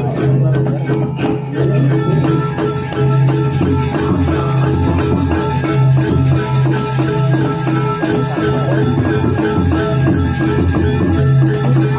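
Balinese gamelan music playing: metallophones ringing over a strong low sustained tone, with fast percussion strokes throughout.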